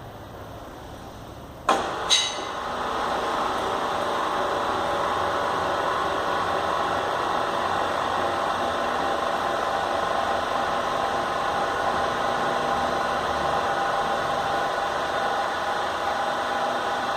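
The drive of a blast-furnace discharge gate starting up on command: two sharp clicks a little under two seconds in, then a steady mechanical running sound as the gate is driven in reverse.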